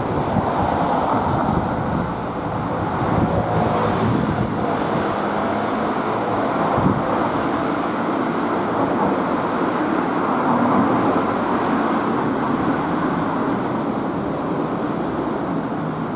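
Steady road traffic noise from vehicles on a city street.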